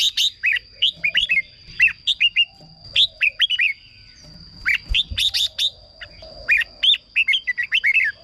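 Red-whiskered bulbul singing: short phrases of quick, clear whistled notes, repeated with brief pauses between them. A faint, steady high whine runs underneath.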